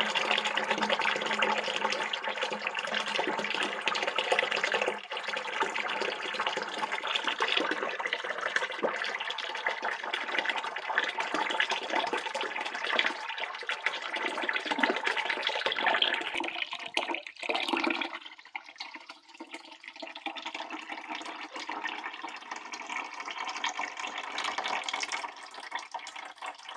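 Used carburetor-cleaning solution being poured out of a cleaning tank in a steady stream, which thins to a weaker trickle about three quarters of the way through.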